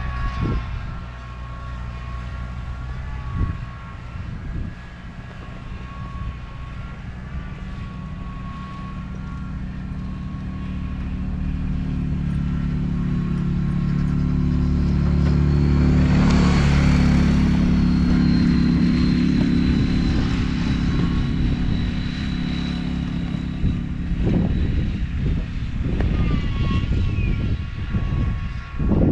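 Vehicle engine running under varying load, building to its loudest a little past halfway and then easing off, with a few knocks along the way.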